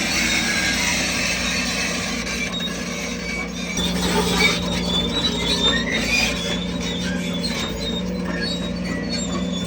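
Crawler bulldozer running, its diesel engine giving a steady drone under high-pitched squeals and screeches from the steel tracks.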